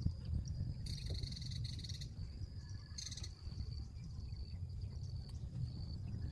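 A steady high insect trill, with two loud rasping calls made of rapid pulses, the first lasting about a second and the second shorter, over a constant low rumble.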